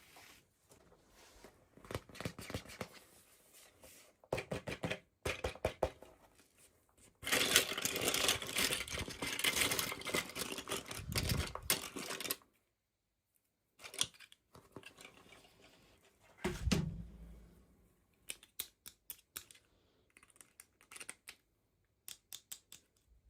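Toy packaging being opened by hand: a stretch of several seconds of continuous tearing and crinkling in the middle, with runs of small plastic clicks and taps before and after, and a dull thump about two-thirds of the way through.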